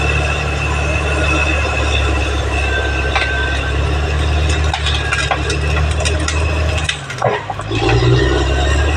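Caterpillar D6R XL bulldozer running with its diesel engine at a steady, heavy rumble. A steady high squeal and metal clinks come from its steel crawler tracks. The sound dips and shifts briefly about seven seconds in.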